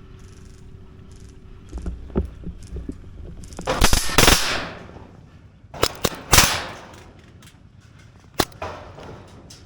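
Airsoft guns firing in a skirmish: a few small knocks, then a loud cluster of cracks with a hissing trail about four seconds in, followed by single sharp shots around six seconds and again near eight and a half seconds.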